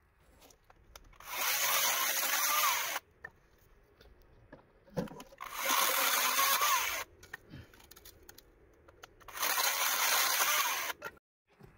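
Electric saw cutting wood in three short bursts of about a second and a half each, with quiet pauses between them.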